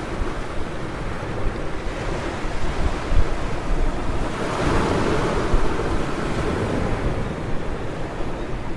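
Ocean surf breaking on a beach: a wave washes in and swells to its loudest about halfway through, then eases. Wind buffets the microphone with a low rumble throughout.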